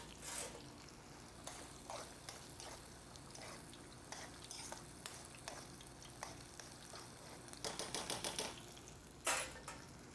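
Tempura onions frying in hot oil with a faint sizzle, while cooking tweezers click and tap against the pan. A quick run of clicks comes near the end, then one brief louder burst of noise.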